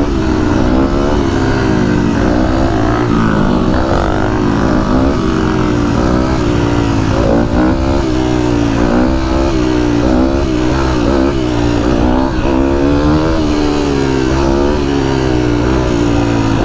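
Dirt bike engine being ridden, revving up and down over and over so that its pitch keeps rising and falling.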